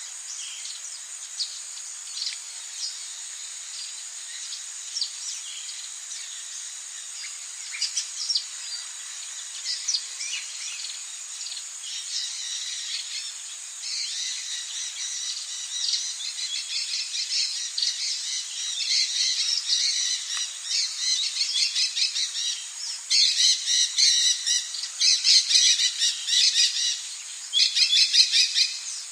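Rainforest ambience: many birds chirping and calling over a steady high insect drone. The calls grow denser and louder about halfway through, with rapid, loud runs of calls near the end.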